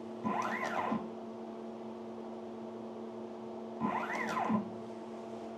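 Axis drive motors of a home-made CNC plasma table jogging the gantry twice, each move under a second, with a whine that rises and falls as the motor speeds up and slows down. A steady electrical hum runs underneath.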